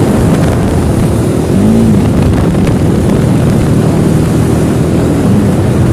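Bajaj Dominar 400's single-cylinder engine running hard on the move, under a heavy roar of wind on the microphone. Its pitch swells up and falls back briefly a few times.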